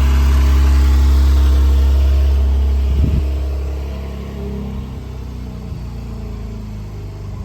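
Porsche 911 Carrera 991.2's 3.0-litre twin-turbo flat-six idling through its standard exhaust, the sports exhaust switched off and the engine not yet warmed up. The steady low engine note gets quieter about three to four seconds in.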